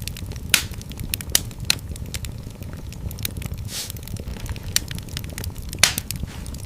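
Wood fire in a fireplace crackling: irregular sharp pops and snaps over a low steady rumble, with two louder pops, one about half a second in and one near the end.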